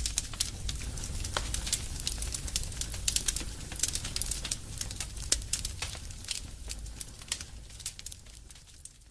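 Small wood fire of twigs and pruning branches crackling, with many sharp pops of varied loudness over a low rumble. It fades out near the end.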